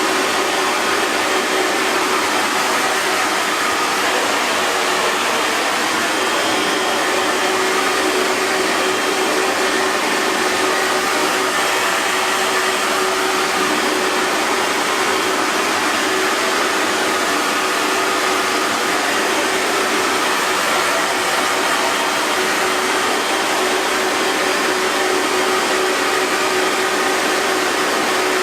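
Hair dryer running continuously, a steady even rush of air with a faint constant hum of its motor underneath.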